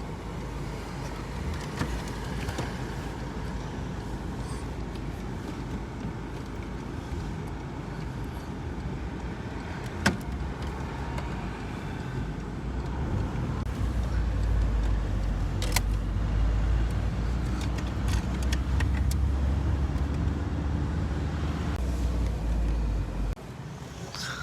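Low rumble inside a car, louder in the second half and dropping off sharply near the end, with a few sharp clicks along the way.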